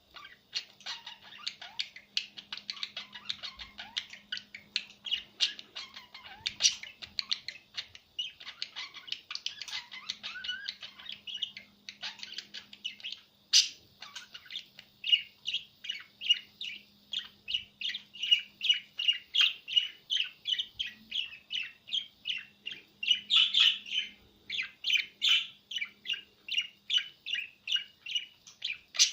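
Small pet bird chirping and chattering in a fast, jumbled stream, then from about halfway through calling in an even series of short chirps, about two a second.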